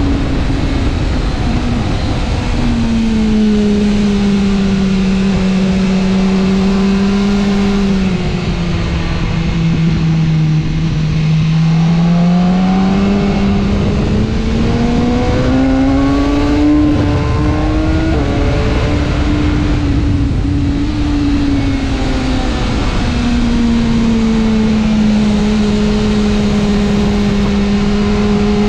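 2014 BMW S1000R's 999 cc inline-four engine running at track speed, its pitch falling and rising as the throttle is closed and opened through corners, with a few step drops in pitch. Steady wind rush lies under it.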